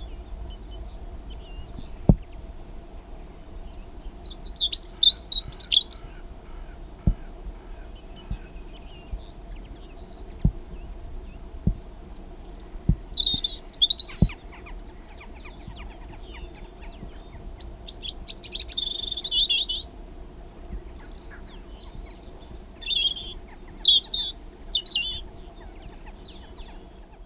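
Small songbirds twittering and chirping outdoors, in several short spells of high song a few seconds apart. A few sharp knocks are heard now and then, over a steady low rumble.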